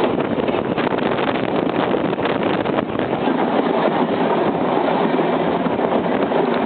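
A Manx Electric Railway tram running along the line, with a steady rumbling running noise and irregular rattling.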